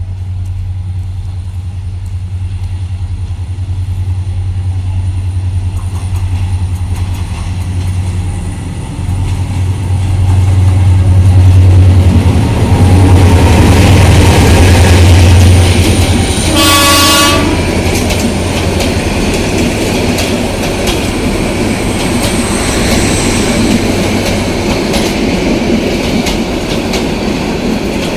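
Intercity passenger train passing close by: the diesel locomotive's engine drone swells to its loudest as it goes past, and its horn sounds one short blast a little past the middle. Then the carriages roll by with a steady clatter of wheels on rail joints.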